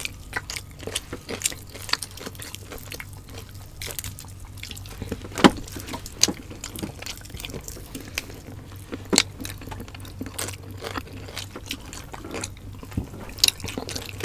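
Close-miked wet chewing and lip-smacking of two people eating roast suckling pig by hand, with many small moist clicks. A few sharper snaps come about five, six and nine seconds in.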